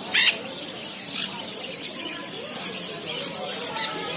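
Many caged birds calling together, with shrill squeals, squawks and chirps. One loud harsh squawk comes just after the start, and a sharper call comes near the end.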